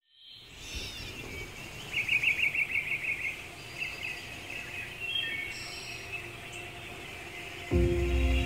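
Outdoor birdsong fading in: small birds chirping, with a rapid trill of repeated high notes about two seconds in. Music with low held notes comes in near the end.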